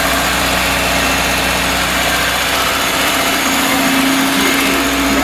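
VAZ-21099's 1.5-litre carburettor four-cylinder engine idling steadily; a steady low hum joins in about three and a half seconds in.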